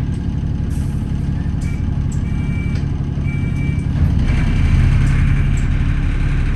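Alexander Dennis Enviro400 double-decker bus heard from inside, its engine and drivetrain running with a steady low rumble. Three short high electronic beeps sound about two to four seconds in, and the engine gets louder about four seconds in.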